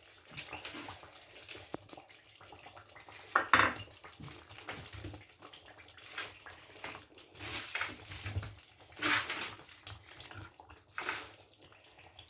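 Chicken pieces being added to a pot of thick tomato stew: a series of wet plops and splashes, roughly one every second or two.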